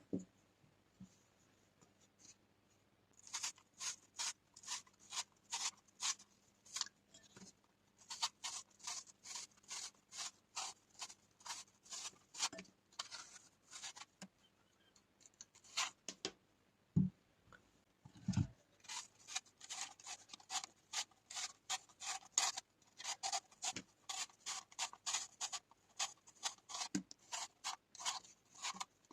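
Rhythmic rasping scrapes from food preparation, a few strokes a second, in runs broken by short pauses, with two low thuds near the middle.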